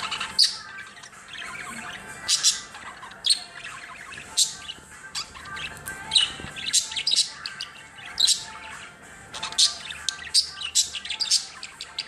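Pet budgerigar chirping excitedly: a fast string of sharp, high chirps over a softer, continuous warbling chatter.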